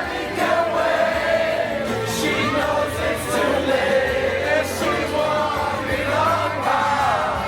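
Party crowd singing along together over loud pop music from the sound system.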